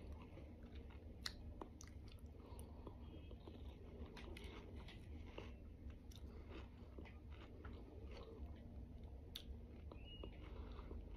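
A person chewing a mouthful of juicy watermelon, faint and wet, with a few small clicks scattered through.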